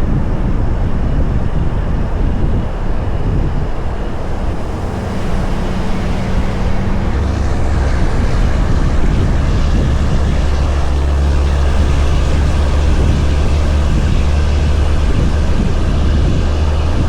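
Heavy-haul truck's diesel engine running under load with road and wind noise. A deep, steady engine drone grows stronger about seven seconds in.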